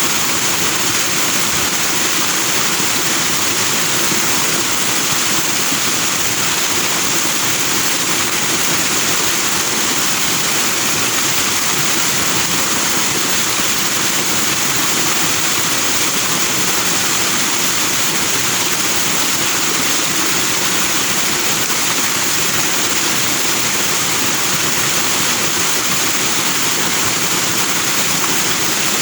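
Forest stream rushing and splashing over rocks into white foam, a steady, loud hiss with no change.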